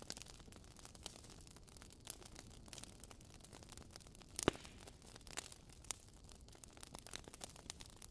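Faint crackling of a wood fire in a fireplace: irregular small pops and snaps over a soft steady hiss, with one louder pop about halfway through.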